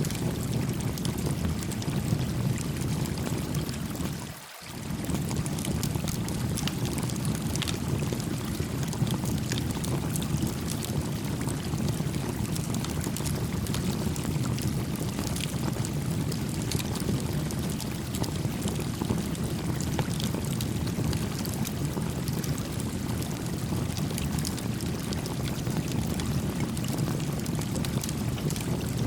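A gently flowing stream rushing steadily, with a small wood campfire crackling over it in scattered sharp pops. The whole sound dips briefly about four and a half seconds in.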